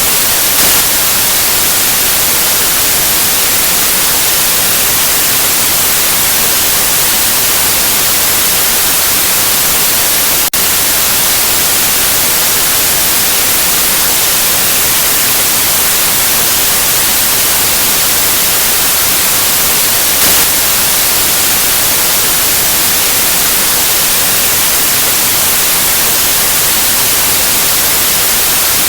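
Loud, steady white noise: an even hiss across the whole range, brightest in the highs. It dips for a split second about ten seconds in.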